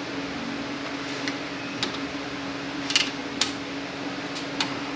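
Metal transmission parts clinking and knocking against each other as a stubborn internal part is worked loose, about six sharp clicks, the loudest around three seconds in, over a steady low hum.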